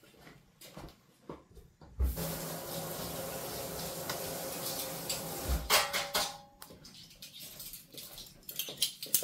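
Kitchen tidying: small clinks and knocks of dishes and utensils being handled, with a tap running for about three and a half seconds, switched on about two seconds in, and a clatter of dishes just after it stops.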